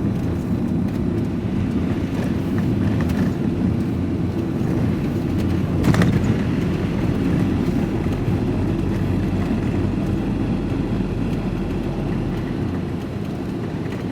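Steady engine and road rumble inside a moving vehicle's cab, with a brief knock about six seconds in.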